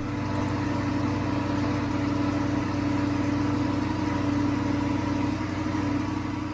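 Classic car engine idling steadily at an even speed, beginning to fade near the end.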